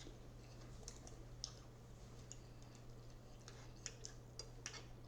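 Faint, scattered mouth clicks and smacks of someone chewing food, at irregular intervals over a low steady electrical hum.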